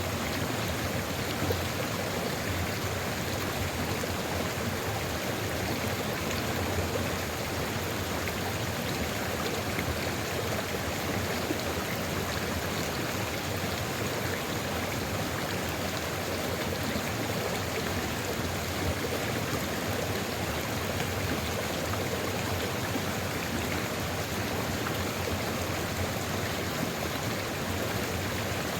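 Sulfur river flowing steadily: an even, unbroken rush of running water.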